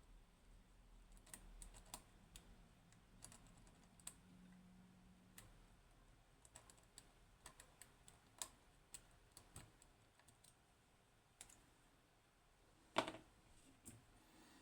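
Faint, irregular clicking and ticking of a lock pick working the pins of a 15-pin Codkey Locksys lock, with one louder click about 13 seconds in. The lock is not yet opening: something is still binding.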